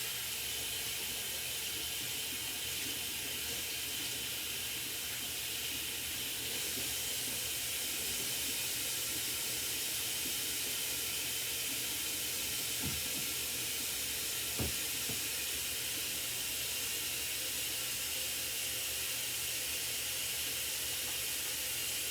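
Water tap running steadily into a sink as hands are washed under it, with two faint knocks about 13 and 15 seconds in.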